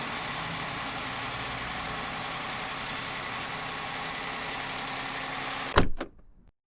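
Suzuki Spacia (MK32S) three-cylinder engine idling steadily. About six seconds in there is a sharp knock, and then the sound cuts off.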